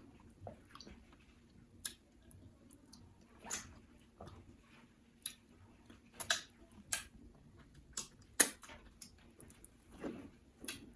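Close-miked chewing of pounded yam with ogbono and egusi soup: scattered wet mouth smacks, soft squishes and clicks, the sharpest a little past eight seconds in.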